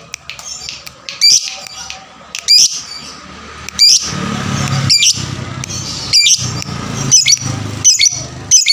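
Fighter lovebird giving loud, shrill single chirps, about one a second. A steady low rumble runs underneath from about halfway.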